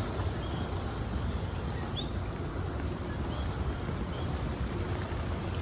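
Steady low rumble of wind on the microphone, with the faint short rising chirps of coquí frogs calling now and then above it.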